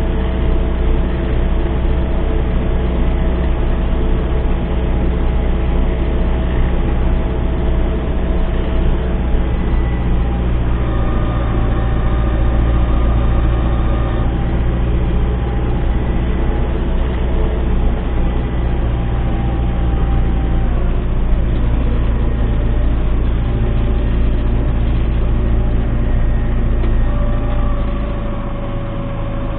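MTZ-892 tractor's four-cylinder diesel engine running steadily at working speed, a loud continuous low drone that eases off slightly near the end.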